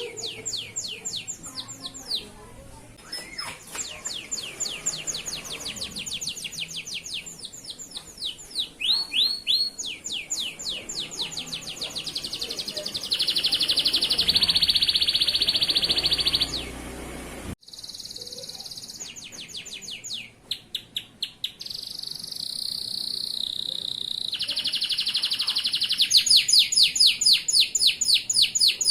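Male canary singing, its song made of fast trills of repeated falling notes and long, even rolls, phrase after phrase. The song breaks off suddenly for a moment about two-thirds of the way through, then carries on.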